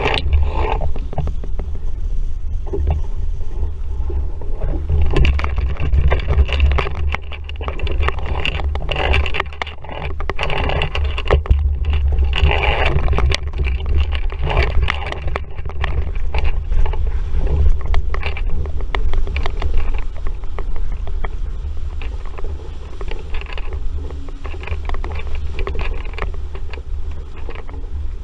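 Wind buffeting the microphone as an RS Vareo sailing dinghy moves through choppy water, with water rushing and splashing against the hull and short irregular knocks and rattles.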